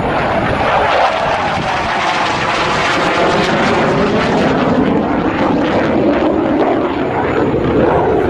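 Jet noise from a JF-17 Thunder's single Klimov RD-93 turbofan as the fighter flies a display pass. The sound is a loud, steady roar with a tone that slides down in pitch through the middle and climbs again near the end.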